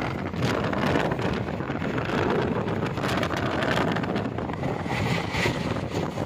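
Wind rushing and buffeting over the microphone at the open door of a moving train, over the steady running rumble of the train on the rails.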